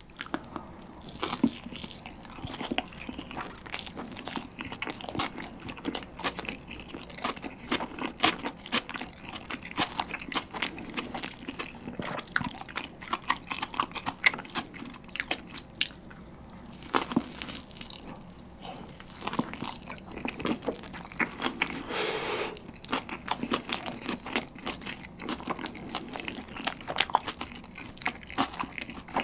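A person biting into and chewing a slice of pizza close to the microphone: the crust crunches and crackles with many small, irregular bites and chews throughout.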